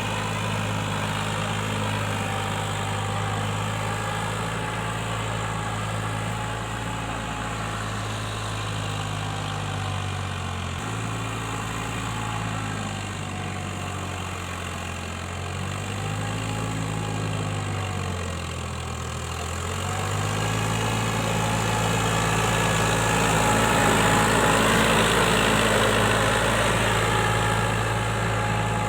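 Eicher 551 tractor's diesel engine running steadily. Its pitch dips and recovers a few times around the middle, then it runs louder near the end.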